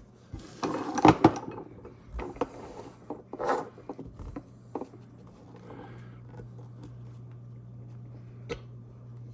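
Small metal parts of an AR-15 safety selector being handled and pushed apart: rubbing and scraping with sharp clicks, loudest about a second in, dying away after about five seconds. A steady low hum runs underneath.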